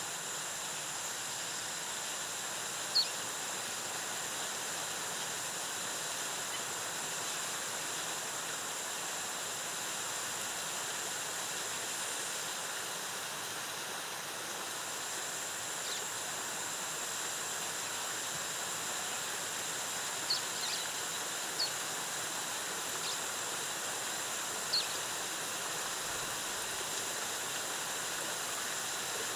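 Waterfall cascading steadily, a constant rush of water. Over it runs a steady high-pitched whine that breaks off for a moment near the middle, and short high chirps come now and then, a cluster of them about two-thirds of the way through.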